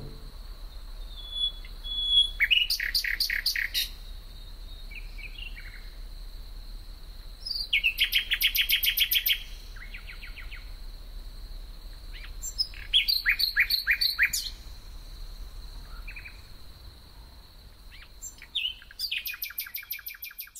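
Birdsong: a bird sings four phrases of rapid, evenly repeated high notes, each lasting one to two seconds, with single chirps between them. A steady thin high tone runs underneath and stops near the end.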